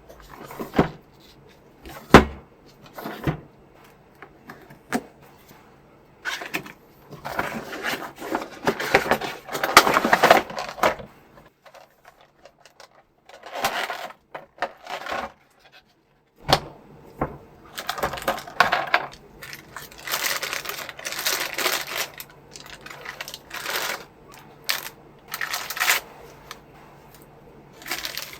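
Packaging of a boxed action figure being handled and opened: a few sharp clicks and taps, then repeated bursts of rustling and crinkling.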